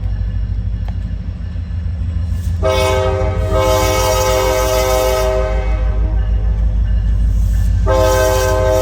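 EMD SD40-2 diesel locomotive's horn sounding one long blast that starts about two and a half seconds in, then a fresh blast near the end, over the steady low rumble of the diesel locomotives.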